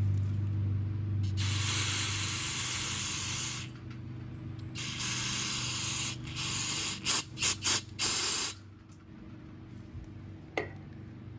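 Aerosol can of brake cleaner spraying onto a carburetor float: two long hissing blasts of about two seconds and one second, then a quick run of short spurts. A small knock follows near the end.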